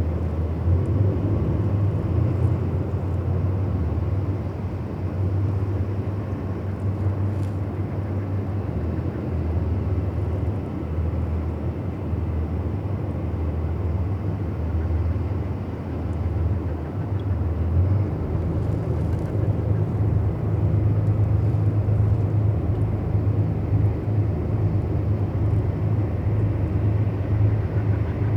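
Low, steady engine rumble with a noisy wash over it, growing fuller and deeper about eighteen seconds in.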